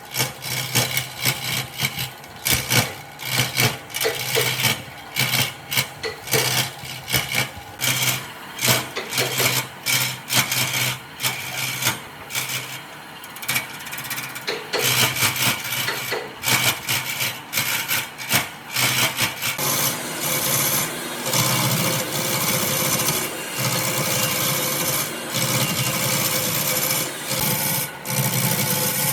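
Wood being shaped by a tool, with rapid irregular rasping strokes. About twenty seconds in, this gives way to a steadier, continuous grinding.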